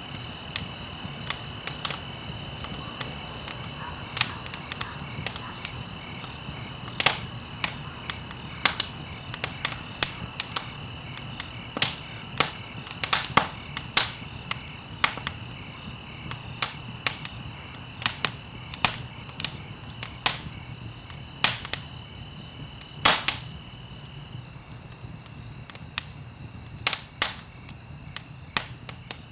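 Wood fire crackling: irregular sharp pops and snaps of varying loudness, the biggest about 7, 13 and 23 seconds in, over a low steady rumble, with a steady high-pitched tone in the background.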